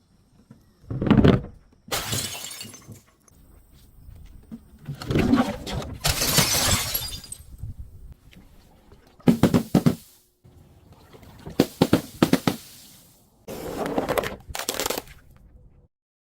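Glass bottles being smashed: about six separate bursts of breaking and shattering glass, some short and sharp, a couple drawn out for a second or two.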